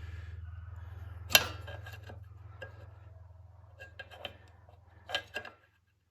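Scattered clicks and knocks from hands working on a small lawnmower engine, the sharpest about a second and a half in, over a low steady hum that fades and stops near the end.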